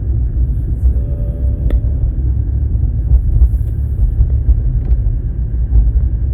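A steady low rumble with a single sharp click just under two seconds in.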